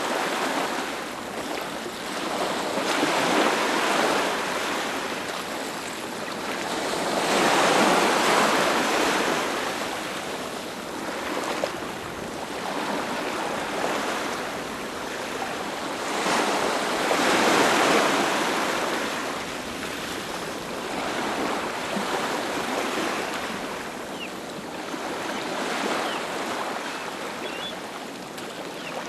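Ocean waves breaking on a beach: a continuous wash of surf that swells as each wave crashes, about every four to ten seconds, and ebbs between them.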